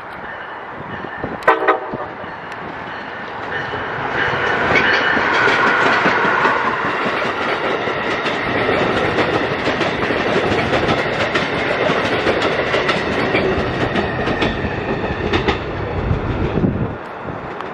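Amtrak Keystone Service passenger train passing at speed on the Northeast Corridor: a loud steady rush of wheels on rail with rapid clicking over the rail joints for about twelve seconds, dropping away near the end.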